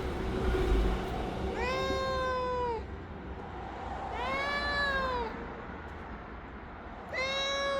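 A cat meowing: three long, drawn-out meows a couple of seconds apart, each holding a steady pitch with a slight arch. A low rumble sounds in the first second, before the first meow.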